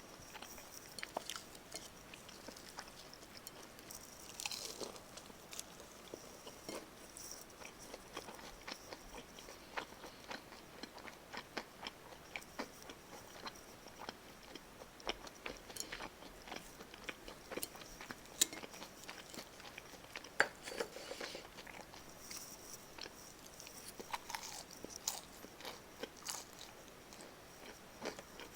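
Close-miked crunching and chewing of crispy karaage, Japanese fried chicken, with irregular sharp crackles as the fried coating is bitten and chewed.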